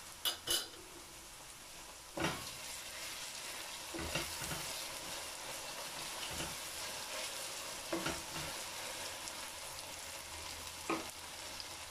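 Chopped onions, ginger and garlic sizzling in hot oil in a stainless steel pot as a spoon stirs them, with several knocks and scrapes of the spoon against the pot.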